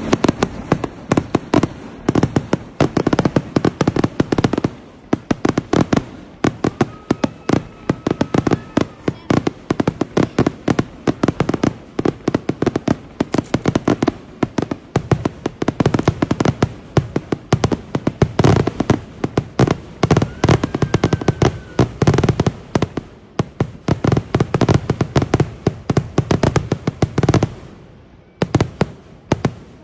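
Fireworks going off in a rapid, continuous barrage of sharp bangs and crackles, many per second, thinning to a few scattered pops near the end.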